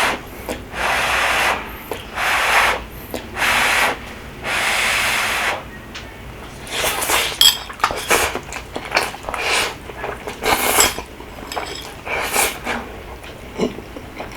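Eating rabokki noodles: four breathy blows of about a second each on the hot food, then from about halfway on, a run of short slurps, chewing smacks and utensil clicks against the bowl.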